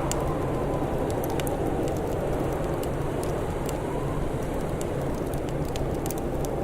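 Crackling fire: scattered sharp pops and snaps over a steady low rushing background.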